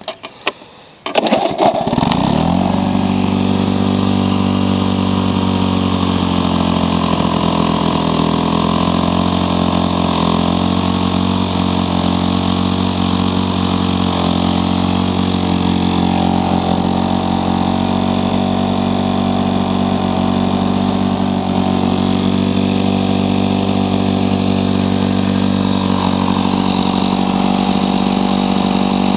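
Late-1970s Lawn-Boy 19-inch Deluxe two-stroke mower engine starting: it catches about a second in and then runs steadily, its pitch wavering for a few seconds before settling.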